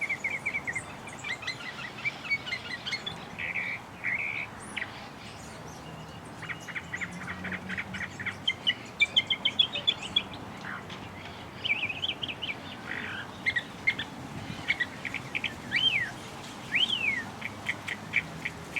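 Songbirds chirping, with quick rattling runs of notes and a couple of rising-and-falling whistles near the end.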